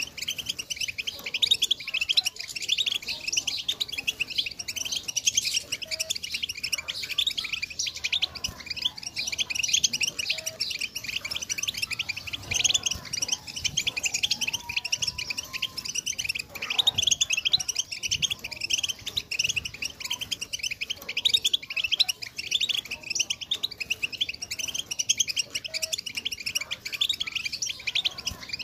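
A flock of female European goldfinches calling together: a dense, continuous chatter of rapid, high twittering chirps.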